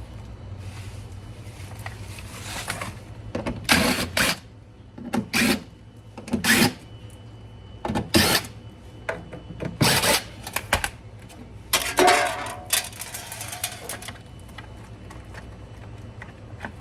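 Intermittent mechanical clatter and scraping from work on a refrigerator: a dozen or so short, sharp bursts a second or two apart, the busiest stretch about twelve seconds in, over a low steady hum.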